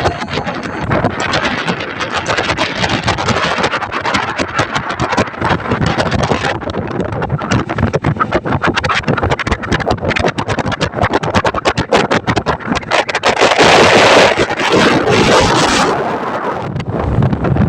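Wind buffeting the microphone aboard a fishing boat at sea, over the continuous noise of the boat underway. It gets louder for a couple of seconds near the end.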